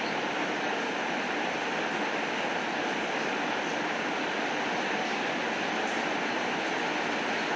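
Steady rain, an even continuous hiss with a few faint scattered ticks.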